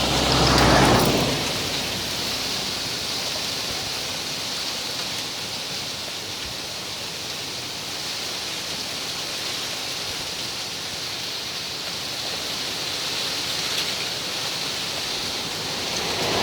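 Wind rustling palmyra palm fronds, a steady rain-like hiss. A stronger gust about a second in, and another at the very end, also buffets the microphone.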